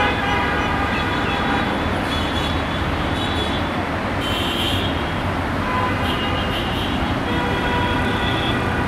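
Diesel locomotive approaching at the head of a passenger train, its engine running as a steady low rumble under a wash of noise, with high tones sounding on and off.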